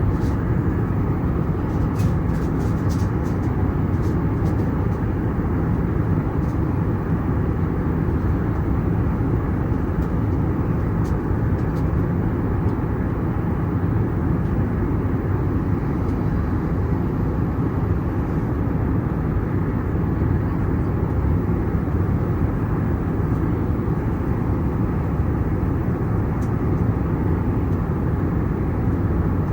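Steady low rumble of engine and airflow noise inside the cabin of an Airbus A321neo airliner, with a few faint clicks about two seconds in.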